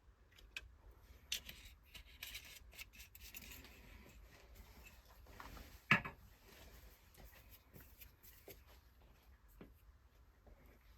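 Quiet handling sounds: scattered small clicks and rubbing, with one sharp knock about six seconds in.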